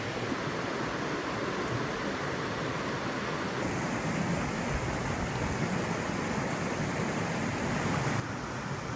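Steady rush of falling water, like a waterfall heard up close, with its tone shifting abruptly a few seconds in and again near the end.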